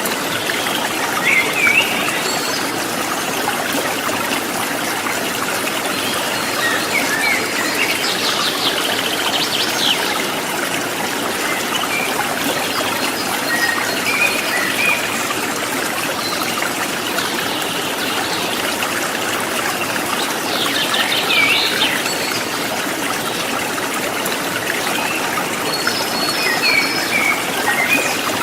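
Water running over the stones of a rocky river, with small birds chirping and trilling now and then above it.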